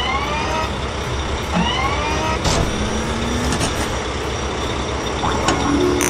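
Excavator engine running steadily, with two short rising hydraulic whines in the first two seconds, a rising low tone, and a few sharp knocks as the arm and bucket work.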